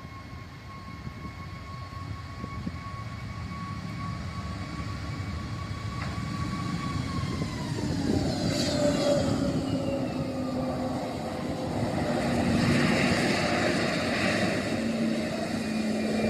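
Airbus A320neo jet engines at high power during the takeoff roll, growing louder. About seven seconds in, their whine drops steeply in pitch as thrust is cut for a rejected takeoff. A broad rush of engine and airflow noise follows and swells again near the end as the aircraft decelerates on the runway.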